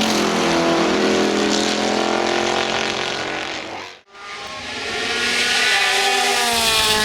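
Race car engine running at high revs, its pitch rising as it accelerates and then fading away. It breaks off abruptly about four seconds in, then another loud acceleration follows with the pitch climbing again.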